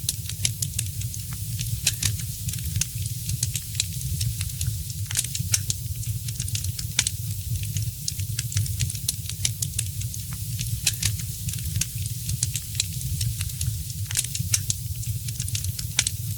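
Wood fire crackling in a fireplace: frequent irregular sharp snaps and pops over a steady low rumble of the flames.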